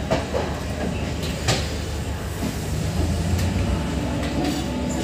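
Refurbished ICF sleeper-class passenger coaches rolling past on arrival, their wheels rumbling steadily on the rails. Sharp clanks come about a second and a half in and again near three and a half seconds.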